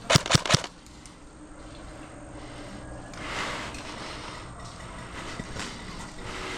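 Airsoft electric rifle firing a quick burst of about four shots right at the start, then a brief rustle about halfway through over steady outdoor background noise.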